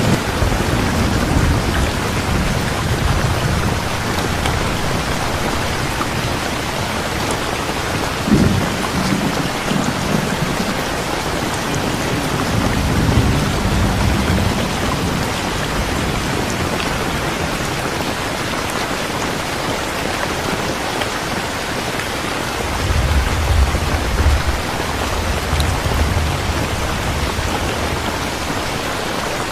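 Steady heavy rainfall hissing without a break, with low rolls of thunder rumbling twice: about a third of the way in and again near the end.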